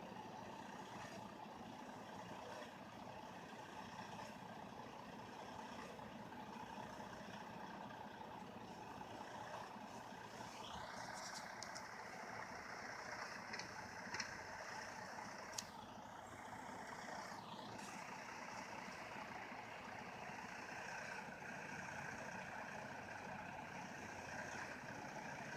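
Semi truck engine running while the truck, stuck in snow, spins its drive tires. About ten seconds in, a higher whine rises and holds. It drops away a few seconds later, with a few sharp clicks along the way.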